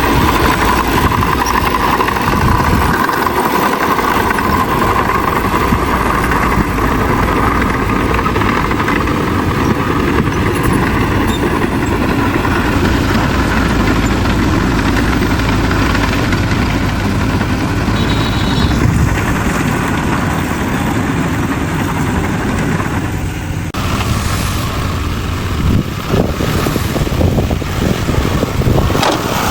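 Heavy diesel earthmoving machinery, a bulldozer at work, running steadily under load. The sound shifts about three quarters of the way through.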